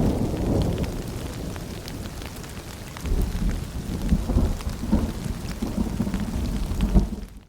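Steady rain with scattered drops and rolling thunder. A rumble fades away over the first couple of seconds, and a new one rolls in about three seconds in. The sound cuts out abruptly at the very end.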